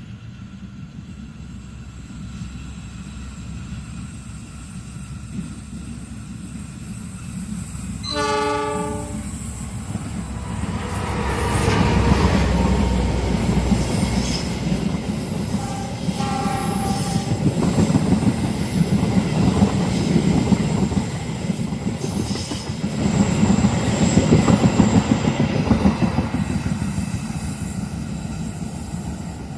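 A long train approaching and passing close by at speed. A rumble builds, the horn sounds once about eight seconds in and again briefly near the middle, then wheels on rail rumble and clatter loudly past for about fifteen seconds. A thin high wheel squeal comes in briefly near the end before the sound fades.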